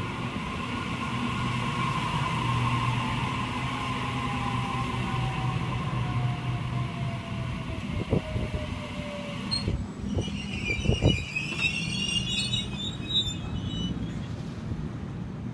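Waratah electric train at the platform: a steady mechanical hum with a whine that slowly falls in pitch. A few knocks come about eight to eleven seconds in, and brief high warbling sounds after about ten seconds.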